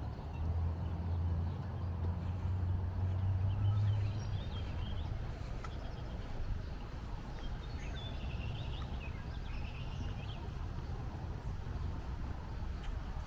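Outdoor ambience with a few small birds chirping briefly now and then over a steady background hum. A low rumble sits under it for the first few seconds, then fades.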